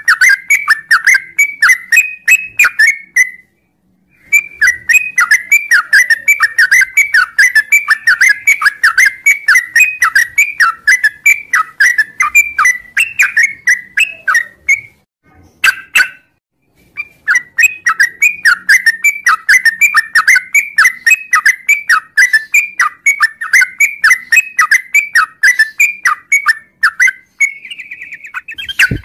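Yellow-vented bulbul (trucuk) singing a long, rapid song of quick whistled notes, several a second, broken by two short pauses, about four seconds in and near the middle.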